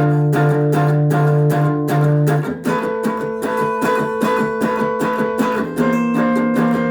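Guitar music: a steady picked or strummed pattern of about four to five notes a second over held chords, with the chord changing twice.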